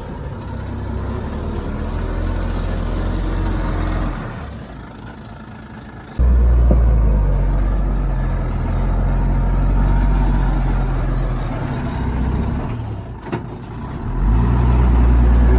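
Shantui bulldozer's diesel engine working under load. It drops off about four seconds in, then surges back up sharply about two seconds later. It eases again with a short sharp knock around thirteen seconds in, then rises once more.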